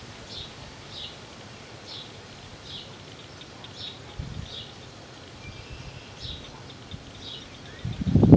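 A bird calling, one short high note repeated about every two-thirds of a second over faint outdoor background noise. Near the end a loud low rumble comes in.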